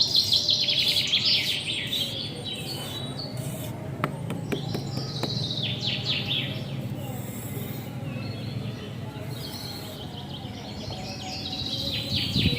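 Birds chirping in quick, repeated falling notes, in a dense run over the first few seconds and again near the end, over a steady low background noise.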